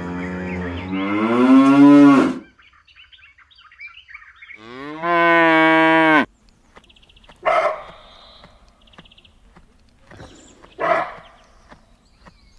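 Cow mooing: two long calls, the first rising in pitch, followed later by two short, separate calls.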